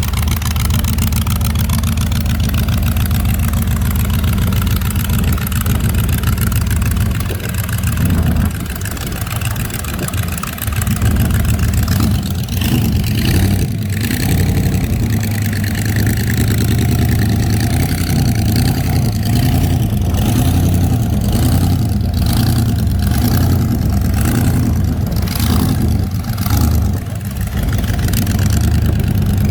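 A car engine running: a loud, steady low rumble that dips briefly about eight and ten seconds in, then rises and falls in pitch as the car drives on.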